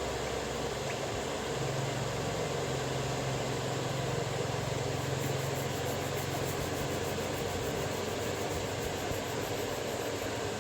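Steady mechanical hum and hiss of a small motor running, its low drone shifting slightly in pitch.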